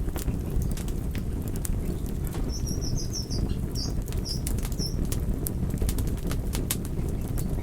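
Wood fire crackling, with frequent sharp pops and snaps over a steady low rumble of the flames. A short run of high chirps comes a few seconds in.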